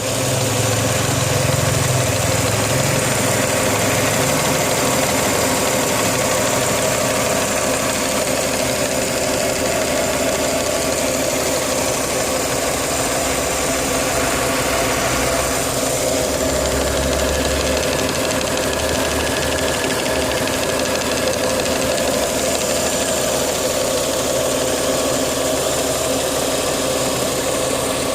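Rover KV6 V6 engine running steadily with a rattle in its sound.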